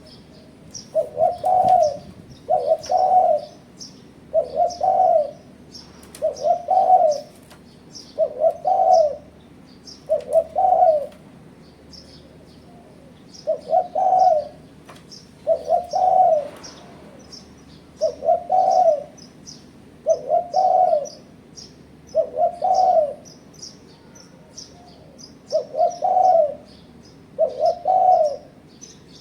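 Spotted dove (tekukur) cooing over and over, a short phrase of two or three coos about every two seconds. High-pitched chirping from small birds runs continuously underneath.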